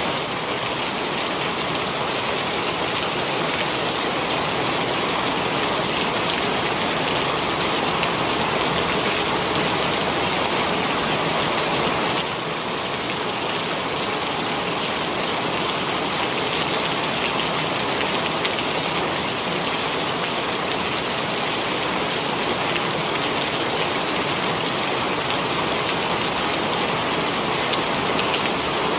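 Heavy rain pouring steadily, a dense even hiss of drops on surfaces, with a brief small drop in level about twelve seconds in.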